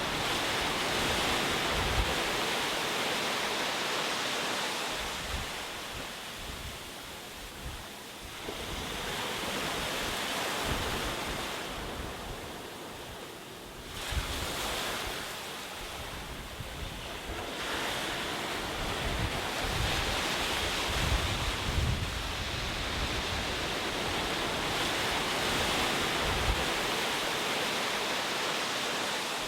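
Ocean waves breaking and washing on a shore, the surf swelling and falling back in slow surges, with wind rumbling on the microphone.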